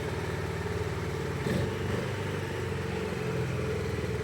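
Honda CB Hness 350's air-cooled 348.5 cc single-cylinder four-stroke engine idling steadily, heard through its exhaust.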